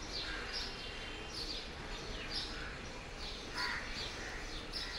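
Birds chirping and calling in short repeated notes, about two a second, over a steady low background hum.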